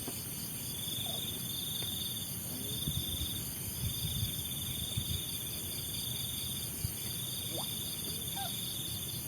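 Night insects calling: one trills in long bursts of a second or two with short breaks between, over a steady high-pitched insect chorus.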